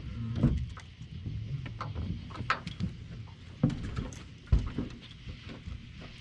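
Irregular taps, clicks and knocks from fishing tackle being handled in a boat, with a few dull thumps against the hull; the loudest thump comes about four and a half seconds in.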